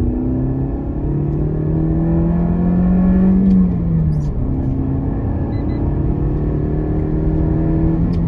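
Car engine heard from inside the cabin while driving on a highway. It rises slowly in pitch as the car accelerates, drops as it shifts up about halfway through, then climbs again and drops once more near the end, over a steady tyre and road rumble.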